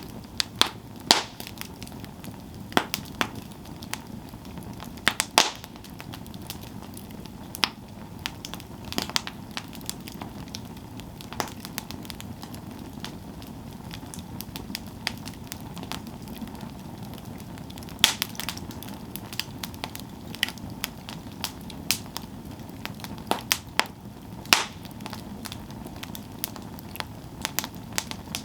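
Campfire burning with a steady low hiss of flame and irregular sharp crackles and pops from the wood, some louder snaps scattered through.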